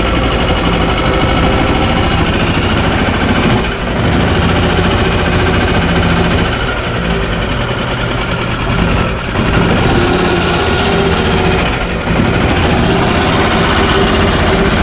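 Yamaha G29 golf cart's single-cylinder gas engine running, freshly tuned up with a new spark plug and air filter; its note shifts a few times, with brief dips about four, nine and twelve seconds in.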